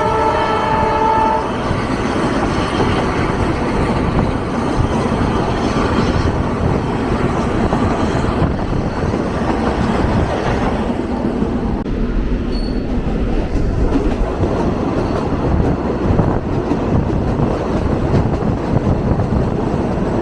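Commuter train horn sounding, cutting off about a second and a half in, then the steady, loud running noise of the moving train.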